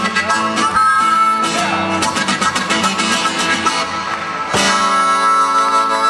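Live acoustic band music: guitar strummed fast through the closing bars, then a final chord held and ringing from about four and a half seconds in.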